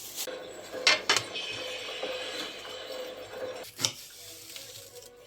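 Kitchen utensils clinking against dishes: two sharp clinks about a second in and another near the end, over a faint steady hum.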